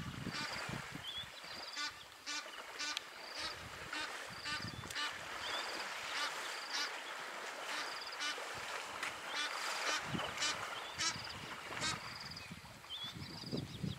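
Birds giving a long series of short, harsh honking calls, one every half second to a second. Underneath, water splashes and sloshes as elephants wallow and wade in a waterhole.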